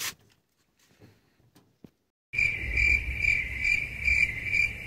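Cricket chirping sound effect that cuts in abruptly about two seconds in and runs loud and steady with an even pulse of about three chirps a second. It is the stock comic 'awkward silence' crickets. Before it there is only a faint click and near silence.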